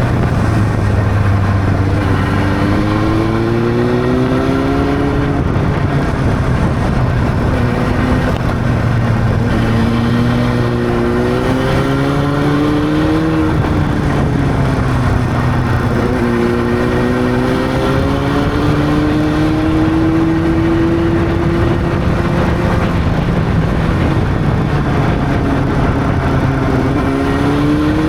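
Honda CB600's inline-four engine under way, its pitch climbing through the revs and dropping at each upshift, about four pulls in all, over a steady rush of noise.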